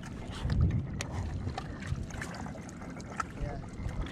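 Water lapping against a kayak hull, with wind on the microphone and a few light clicks.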